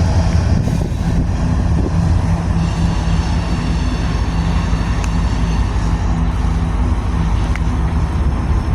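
Engine running steadily: a loud, continuous low rumble with a steady hum.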